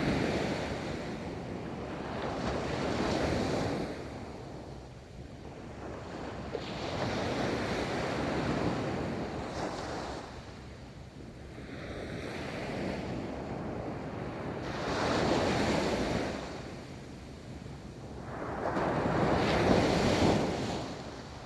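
Ocean waves rolling onto a beach: a steady wash of surf that swells and falls back about six times, each surge building and breaking over a few seconds, the loudest near the end.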